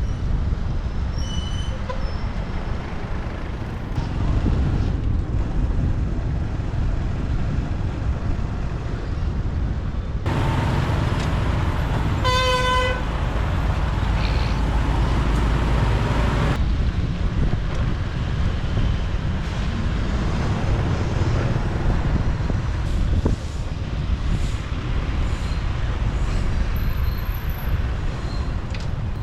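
Steady rumble of motorbike and street traffic with road and wind noise, heard while riding; near the middle a vehicle horn gives one short toot over a louder stretch of passing traffic.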